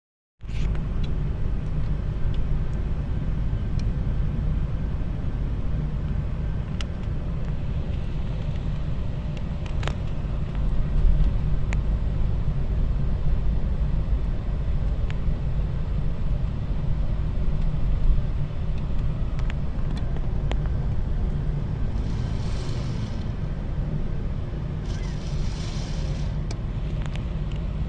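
Car driving along the road: a steady low rumble of engine and road noise that cuts in suddenly at the start, with two brief hissy swells near the end.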